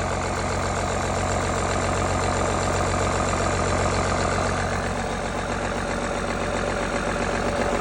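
Cummins 6BT 5.9-litre inline-six turbo diesel running steadily on a startup test.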